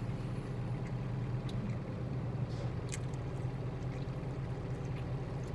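Steady low hum of a truck's engine idling, heard inside the cab, with a few faint clicks near the middle.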